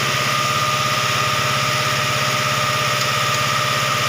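SsangYong car engine running steadily, with a steady high whine over it, while a cleaning fluid drawn in through the intake burns off combustion deposits and flushes them out through the catalytic converter and exhaust.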